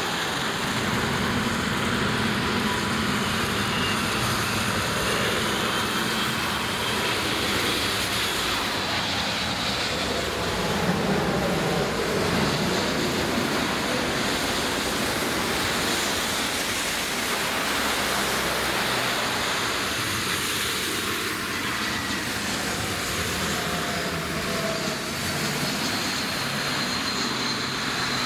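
Jet airliner engines making a steady, loud roar, with a faint high whine that shifts in pitch a few seconds in and again near the end.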